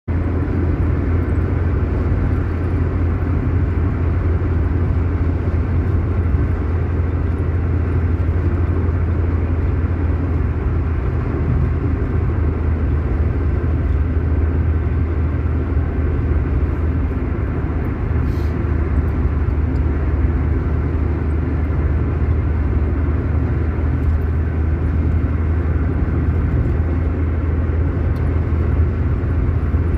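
A steady low rumbling noise, unchanging in level, with a brief faint hiss about 18 seconds in.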